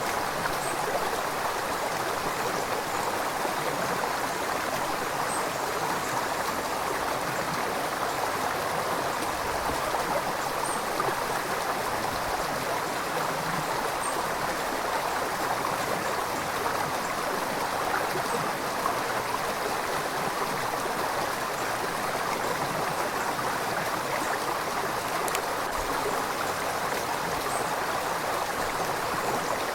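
River water flowing steadily over stones, a continuous even rush with faint small splashes.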